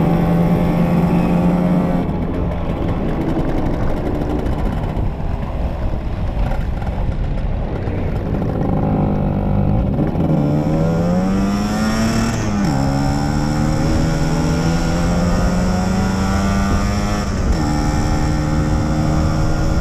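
Two-stroke motorcycle engine on the move. It holds a steady pitch, eases off for several seconds, then revs up with a rising pitch a little past halfway. The pitch drops suddenly at a gear change, holds steady at speed, and changes again near the end.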